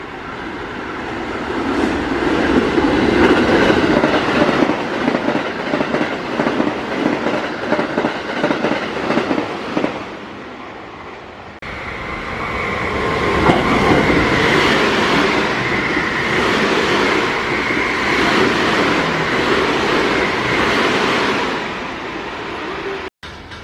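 Electric trains running through the station: wheels clattering rhythmically over the rail joints for about ten seconds, then, after an abrupt cut, a second train running past with a steady high whine over the wheel noise.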